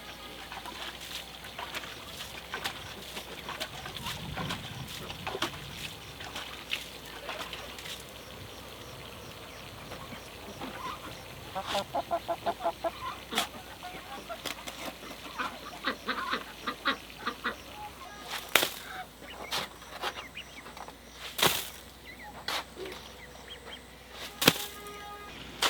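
Poultry calling: many short calls throughout, with a fast run of pulsed calls about halfway through. A few sharp knocks come in the last third.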